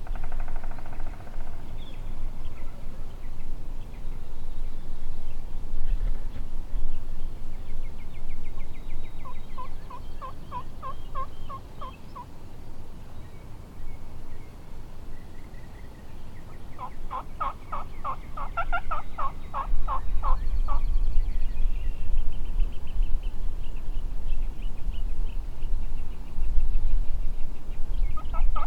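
Wild turkey gobbler gobbling twice, each a quick rattling gobble, the second louder and longer.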